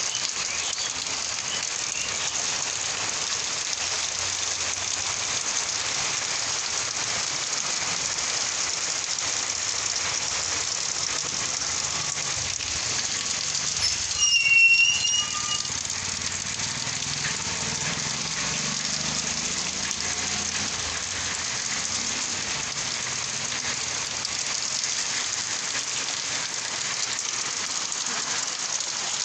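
Steady rain falling and pattering on surfaces. About halfway through, a brief, louder, higher-pitched sound cuts in over the rain.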